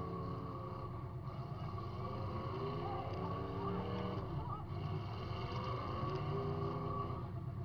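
Demolition derby car's engine running, heard from inside the car, its pitch rising and falling as the throttle is worked.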